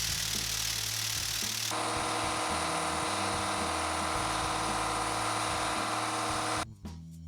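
Workshop power-tool noise over background music: a dense steady hiss, then from about two seconds in a loud buzzing whine that cuts off abruptly near the end.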